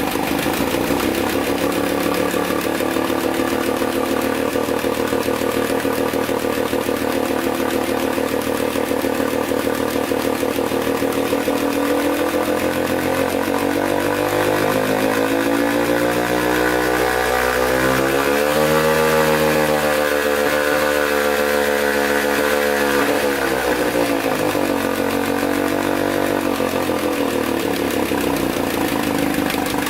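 A 1966–67 Chrysler 9.2 hp two-stroke outboard motor running steadily as it warms up. About halfway through, the revs climb, hold briefly, then drop back to the earlier speed.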